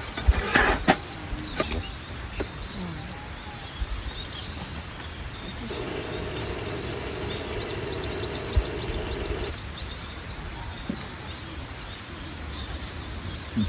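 A small bird calling: three short bursts of rapid, very high notes, roughly every five seconds, over the steady rush of a stream.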